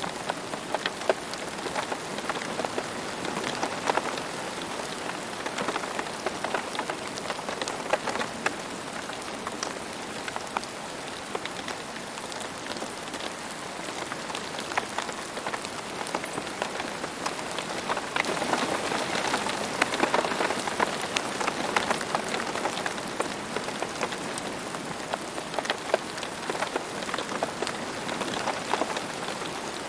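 Steady rain falling on a surface, a continuous hiss flecked with the close patter of individual drops, a little heavier about two-thirds of the way through.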